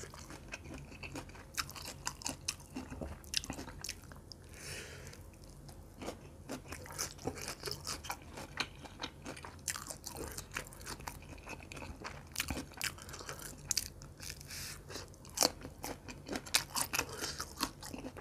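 Close-miked chewing and crunching of food, a run of many crisp crackling bites that grows louder near the end.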